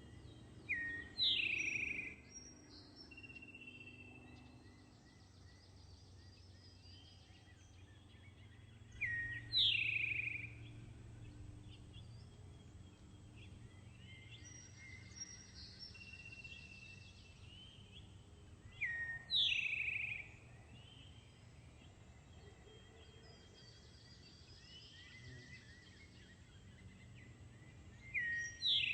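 A songbird singing the same short phrase about every nine seconds, four times. Each phrase is a quick rising note followed by a few higher chirps, over a faint steady forest background.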